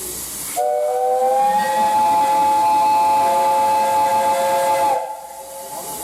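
Steam locomotive whistle, the SL Hitoyoshi's JNR Class 8620 No. 58654, blown once for about four seconds as a chord of several tones. It rises slightly in pitch as it opens, holds steady and cuts off sharply, over the steady hiss of escaping steam.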